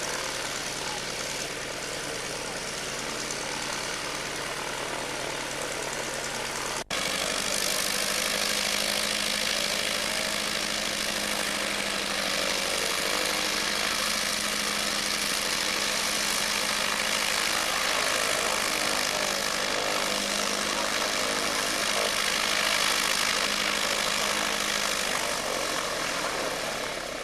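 Propeller aircraft engine running steadily with a constant drone. It breaks off abruptly about seven seconds in and resumes a little louder, with a steady low hum.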